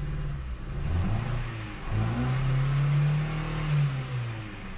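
Ford Focus engine revved twice: a short blip about a second in, then a longer rev held for about two seconds before it drops back toward idle. The engine is misfiring, with a multiple-misfire code (P0300) and cylinder 2 not firing.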